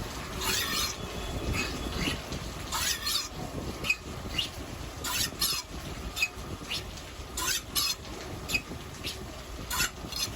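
Rotary surface grinder grinding a sheet cutting die: a low running rumble with short, irregular hissing bursts as the wheel meets the work, about a dozen in all.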